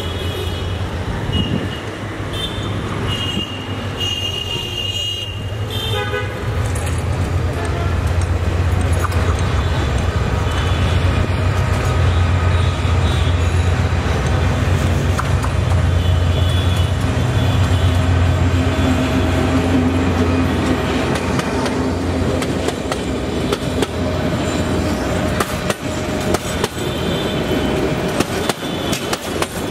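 A diesel locomotive's horn sounds several short blasts in the first six seconds. The locomotive's diesel engine then runs with a deep, steady hum that swells as it approaches and passes. Near the end the passenger coaches roll by, their wheels clicking over the rail joints.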